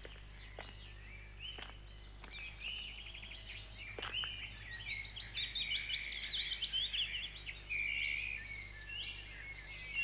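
Birds chirping and trilling outdoors: many short, high calls and quick trills overlapping, busiest in the second half. A low steady hum runs underneath.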